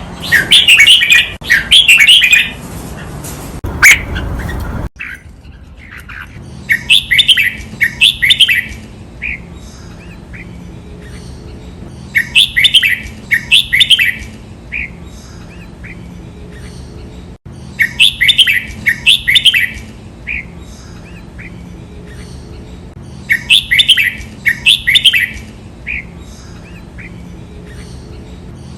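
Red-whiskered bulbul singing: repeated phrases of rich, quick whistled notes, each delivered as a doubled burst with a few trailing notes, about every five seconds. This is the double-phrase song played to train caged bulbuls. About five seconds in, the background hiss drops suddenly where one recording is spliced onto another.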